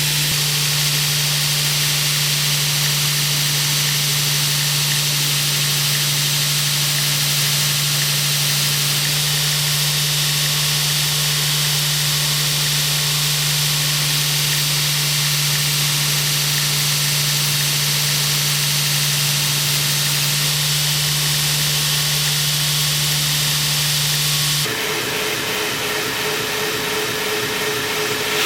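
Electric power sander running steadily with a constant motor hum and abrasive hiss, shaping a maple knife handle. Near the end it changes abruptly to a different steady machine hum with a higher tone.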